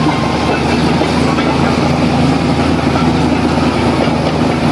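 Heavy diesel engine of earthmoving machinery running steadily, with a dense rough clatter over its low hum.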